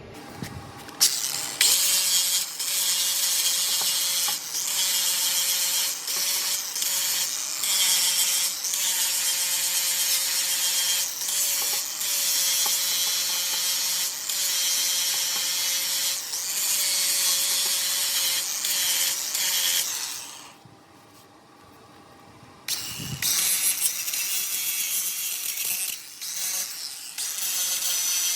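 Angle grinder running against metal parts to clean them up, its steady whine wavering as it is worked. It stops about twenty seconds in and starts again a couple of seconds later.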